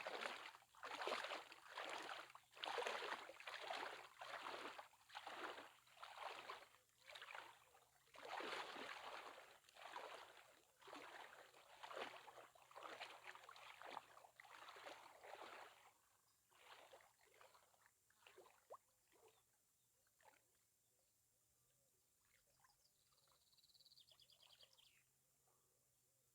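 Water splashing in a steady rhythm, a little more than one splash a second, as a person swims strokes; the splashing fades away about two-thirds through. A bird chirps briefly near the end.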